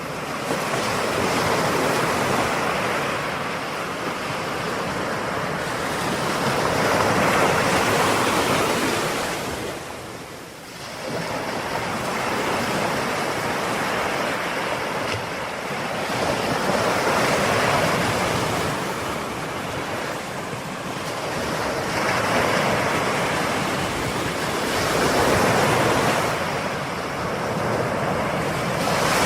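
Ocean waves breaking on a shore, a continuous wash that swells and ebbs in slow surges every few seconds, with a brief lull about ten seconds in.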